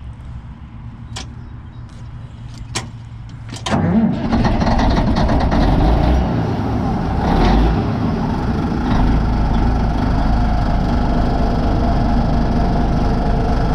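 Caterpillar D8N bulldozer's diesel engine cold-starting on a 24-volt jump pack boost: a few sharp clicks, then about four seconds in it cranks and catches quickly, rising in pitch. It swells briefly around halfway through and then runs steadily.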